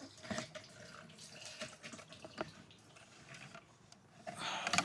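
Gasoline dripping and trickling as the fuel pump module and its float are worked out of the car's fuel tank, with small knocks of the plastic assembly. A brief louder trickle near the end.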